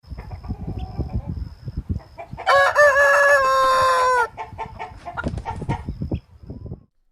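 A rooster crows once, a single call of nearly two seconds starting about two and a half seconds in that drops slightly in pitch at the end. Around it come short knocks and brief clucks.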